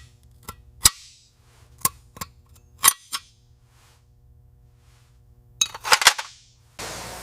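A run of sharp metallic clicks and clanks, irregular and about a second apart, with a quick cluster of them near six seconds in. Near the end a loud hissing rush of noise starts.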